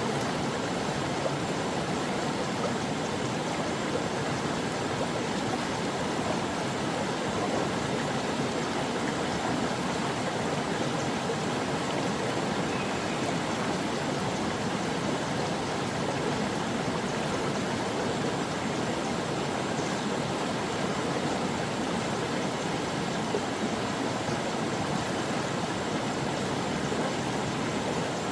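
A stream flowing steadily over rocks, an even rushing and gurgling of water.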